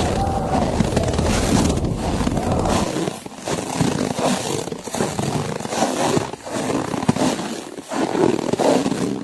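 Footsteps crunching through snow at a steady walking pace, a little more than one step a second, over wind noise. A low wind rumble drops away about three seconds in.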